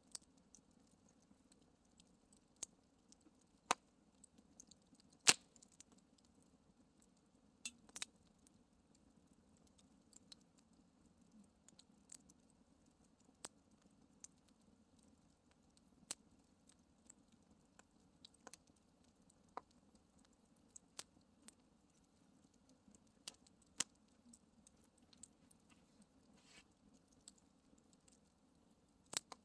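Campfire crackling: irregular sharp pops and snaps of burning wood over a faint steady background, with one louder pop about five seconds in.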